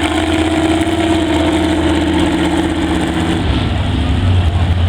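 Mega truck engine running steadily, its note dropping to a deeper, heavier hum about three and a half seconds in.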